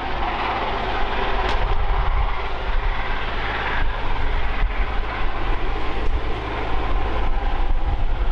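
Steam-hauled passenger train headed by A1 Pacific 60163 Tornado running away along the line: a loud, steady rush of train noise over a deep rumble, with a few faint clicks.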